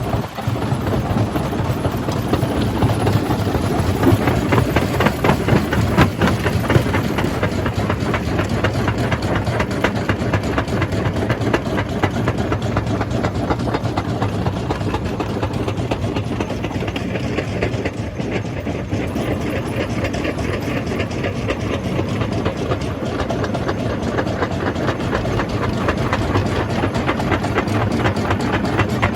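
Jaw crusher running and crushing rock: a steady, loud mechanical clatter of rapid knocks over a deep machine rumble.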